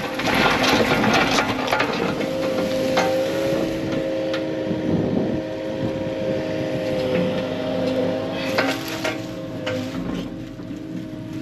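Diesel engine of heavy earthmoving equipment running steadily while clearing brush, with sharp cracks and knocks now and then as brush and rock are broken.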